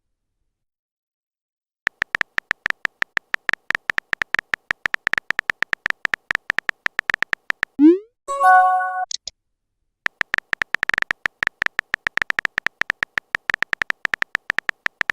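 Rapid smartphone keyboard tap clicks for several seconds, then a short rising swoop and a brief multi-note chime of a text message notification about eight seconds in, followed by more rapid keyboard taps.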